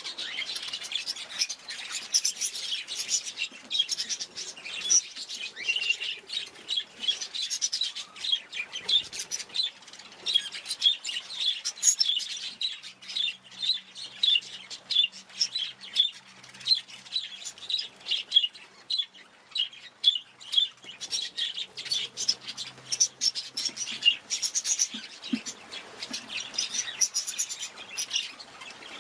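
Budgerigars chattering: a steady stream of quick, high chirps and twitters.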